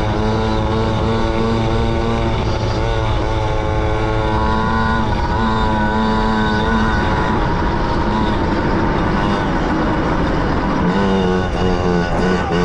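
Small motorbike engine running with its speed rising and falling, revving up and easing off over and over.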